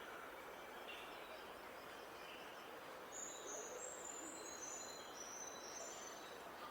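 Small songbird singing outdoors, a run of high, thin notes stepping down in pitch about halfway through, with a few short chirps before it, over a steady background hiss.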